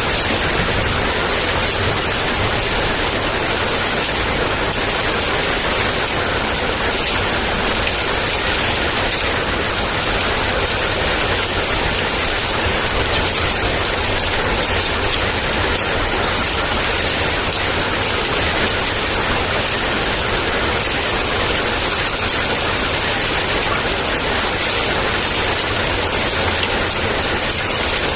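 Heavy rain pouring steadily: a dense, even hiss of downpour without a break or a distinct thunderclap.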